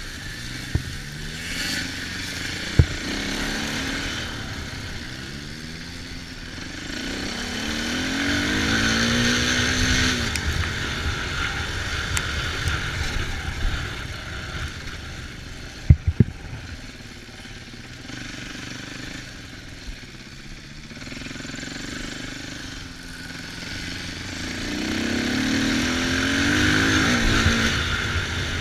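Off-road engine revving up and down as the throttle is worked, its pitch rising and falling in waves. A few sharp knocks, the loudest about sixteen seconds in.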